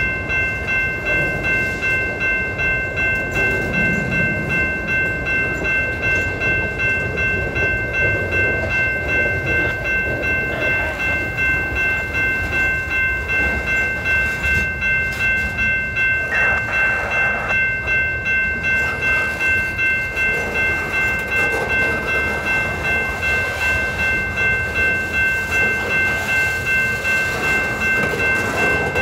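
Freight cars of a manifest train rolling past at speed: wheels rumbling and clacking over the rail joints in an even rhythm, under a steady high-pitched whine.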